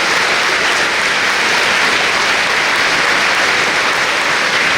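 Large audience applauding in a steady, sustained ovation: many hands clapping together in a dense, even wash.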